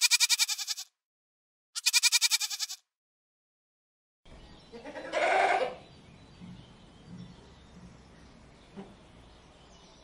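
Goat bleating: two quavering bleats in the first three seconds, then after a pause a single louder bleat about five seconds in over a faint outdoor background.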